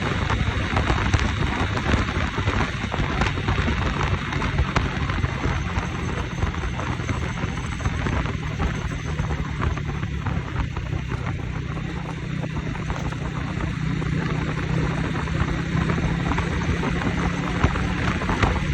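Motorcycle on the move: wind rushing over the microphone, with a steady low engine hum that comes up from about a third of the way in.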